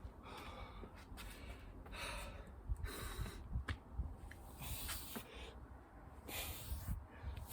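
A person breathing hard from exertion, with loud, rasping exhalations roughly every second, over low thuds.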